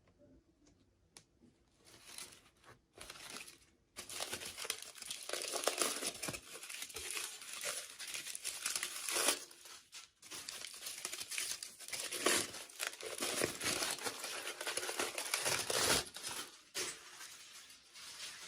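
Packaging crinkling and tearing as it is handled and opened, in a long stretch of continuous crackling with a short break partway through.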